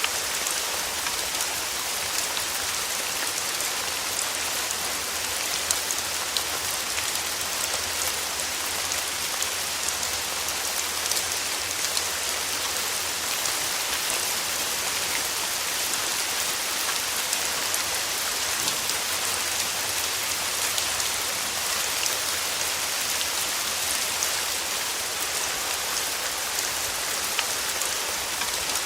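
Steady, even rain falling on a surface, with many small drop ticks.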